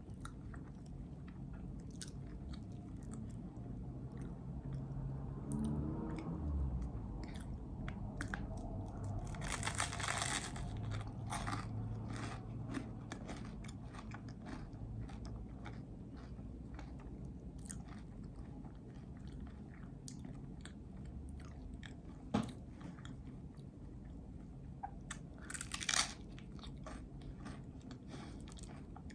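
Close-miked chewing of a peanut butter and jelly sandwich: soft, sticky mouth sounds with many small clicks. Two louder bites or crunches come about ten seconds in and near the end.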